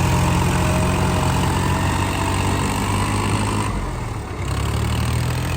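Tractor diesel engine running steadily, with a brief drop in level a little under four seconds in.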